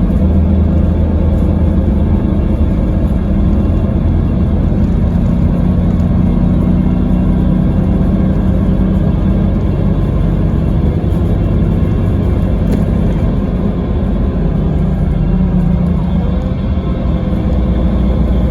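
Scania K320IB coach engine and driveline, with its ZF Ecomat automatic gearbox, running steadily under way as heard from on board: a constant deep drone with road rumble.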